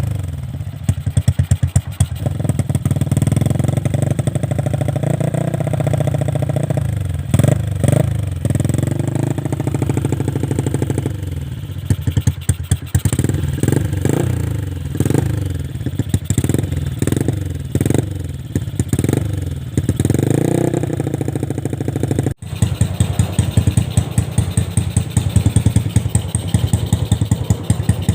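Yamaha LC135 single-cylinder four-stroke engine with a 60mm bore-up block, running through an Espada E5 exhaust. It idles and is blipped on the throttle again and again, with quick revs, bunched together about halfway through. After a sudden break about two-thirds of the way in, it settles to a steady idle.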